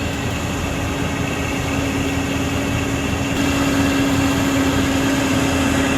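Heavy truck engine running steadily under load as the truck climbs with its front tires fighting for traction; a loud, even drone with one strong steady tone.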